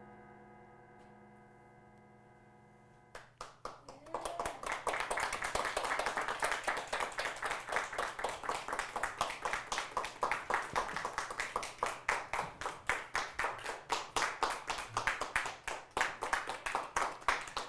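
A held keyboard chord fades out faintly. About three seconds in, an audience breaks into applause, which keeps going steadily.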